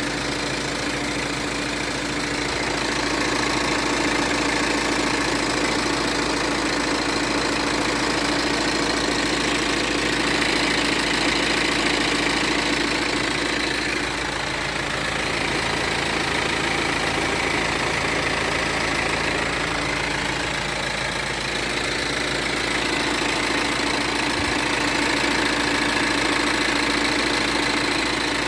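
A motor running steadily at idle, with an unusual noise in its running that the owner calls strange. The sound swells and eases slowly a few times.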